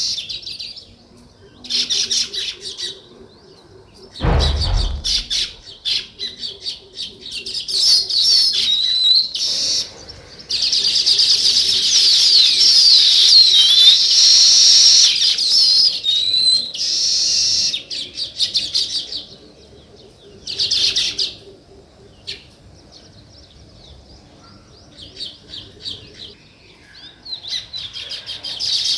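A group of small songbirds chirping in bouts of rapid, high chirps, densest and loudest in a chorus about ten to sixteen seconds in, with quieter spells between. A single low thump comes a little over four seconds in.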